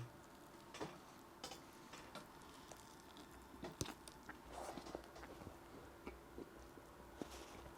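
A person chewing a mouthful of burger, quietly, with soft mouth clicks and smacks scattered every half second or so.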